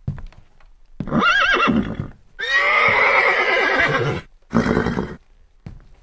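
Horse whinnying: a short, quavering neigh about a second in, then a longer whinny with falling pitch, and a brief third call near the end.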